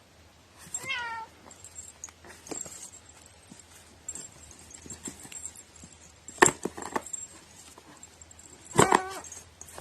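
Domestic cat meowing twice: a wavering meow that falls in pitch about a second in, and a louder, shorter meow near the end, with a sharp click between them.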